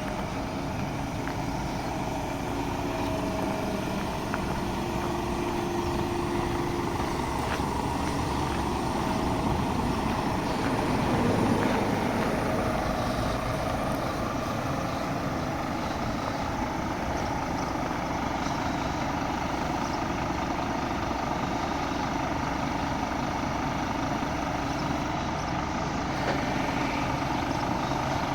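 Scania P 230 truck's diesel engine running steadily, swelling briefly about eleven seconds in.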